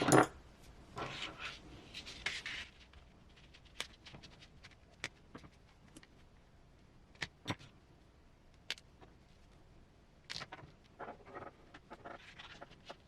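Small hard plastic parts being handled and fitted together by hand on a bench: scattered light clicks and taps, with short stretches of soft rustling near the start and again toward the end.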